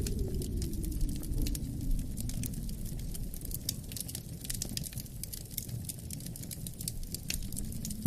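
Wood fire crackling with many small sharp pops, over a low rumble of wind that eases off through the middle and swells again near the end.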